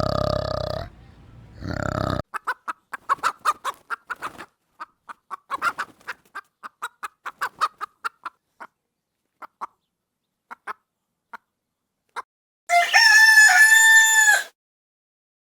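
Chickens: a run of short clucks, quick at first and then thinning out, then a single loud rooster crow near the end. A different animal call is heard briefly in the first two seconds.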